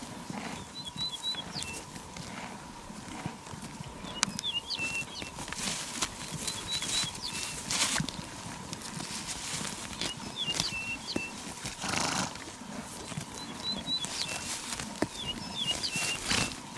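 Horses moving about, their hooves clip-clopping. A short, high chirping phrase repeats about every three seconds.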